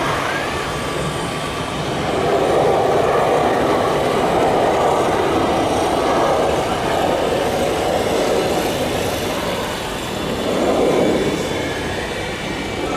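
Boeing 737-800 jet engines at takeoff thrust: a loud, continuous rumble that swells about two seconds in and again near the end.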